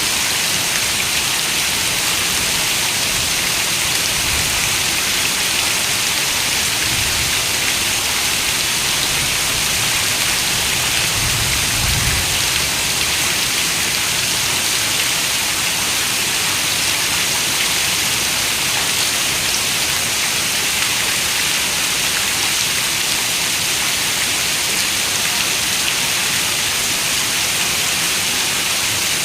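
Steady rain falling, an even hiss of many raindrops with no pauses. A faint low rumble comes and goes in the first half.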